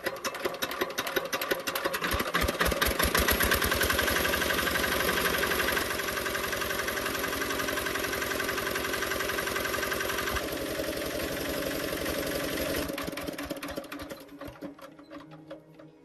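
Restored tractor's diesel engine running: its firing beats quicken over the first couple of seconds, it runs steadily, then it slows and dies away as it is shut off about three-quarters of the way through.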